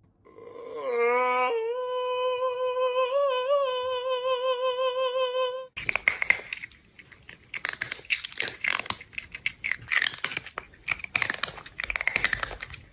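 A drawn-out hummed note that slides up at first, then holds steady with a slight wobble for several seconds and stops abruptly. It is followed by rapid, irregular crunching like chewing on something crisp.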